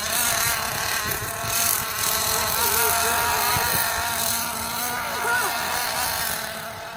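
Nitro-powered RC monster truck's small glow engine running with a high buzz, its pitch wavering up and down with the throttle.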